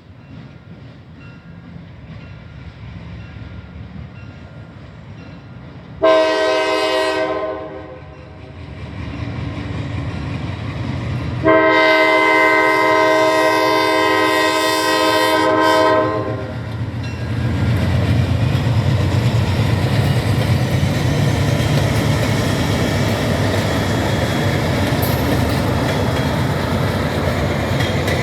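A train approaches a grade crossing sounding its multi-note chime horn: a short blast about six seconds in, then a long blast of about four seconds. The train then passes close by with a steady rumble and the clickety-clack of wheels over the rail joints.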